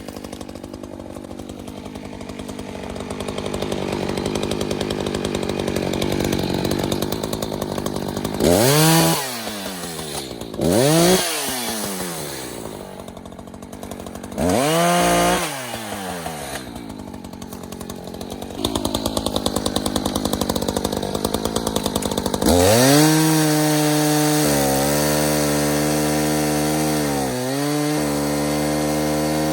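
Echo CS-590 Timberwolf two-stroke chainsaw idling, then blipped up to high revs three times in quick succession. From about two-thirds through it is held at full throttle, its pitch dipping twice as the chain takes load in the wood.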